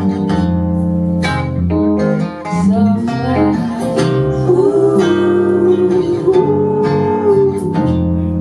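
Live music: an acoustic guitar strumming chords over held notes.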